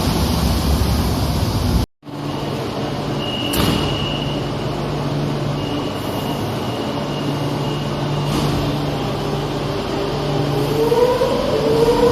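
A public-transport vehicle running. It starts as a noisy rumble, cuts off abruptly about two seconds in, and resumes as a steady hum with a faint high tone. Near the end a rising whine comes in.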